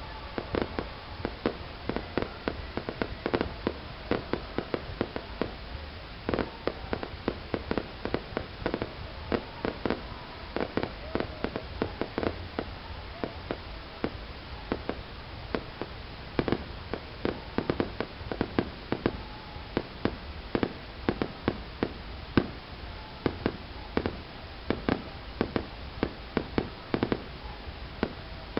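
Fireworks going off: many sharp bangs and pops in quick, irregular succession, several each second, with no let-up.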